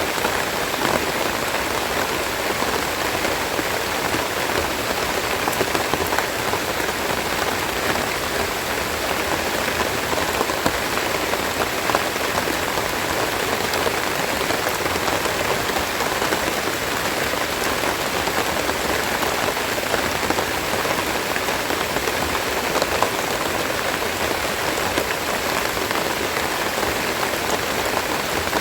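Steady rain falling, an even hiss dotted with the fine ticks of individual drops.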